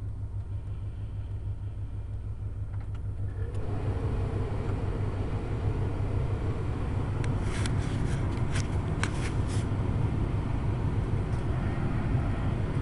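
The 1995 Chevy Cheyenne C2500's 350 (5.7 L) small-block V8 with throttle-body injection idling while it warms up after a cold start: a steady low rumble that gets a little louder and fuller about three and a half seconds in. A few sharp clicks come between about seven and ten seconds in.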